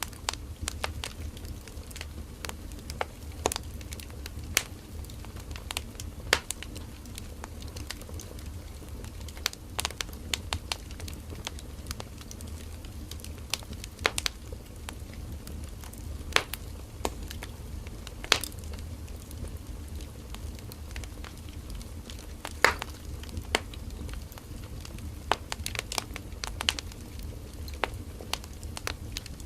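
Firewood burning in an open fire, crackling with irregular sharp pops and snaps over a steady low rumble of the flames.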